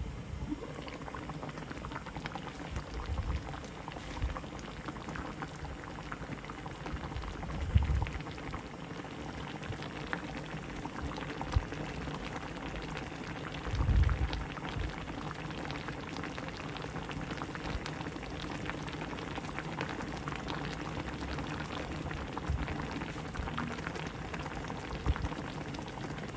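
A pot of liquid boiling on the stove, a steady bubbling and crackling, with a few dull knocks, the loudest about 14 seconds in.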